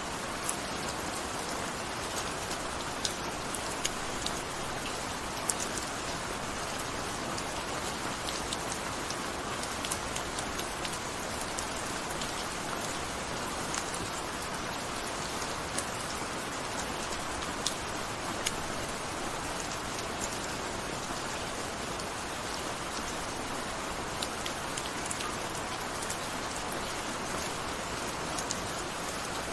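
Steady gentle rain falling, an even hiss with scattered distinct drop taps.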